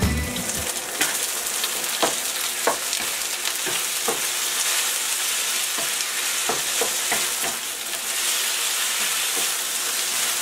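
Marinated chicken pieces sizzling in hot oil in a wok on high heat, with scattered short clicks over the steady sizzle.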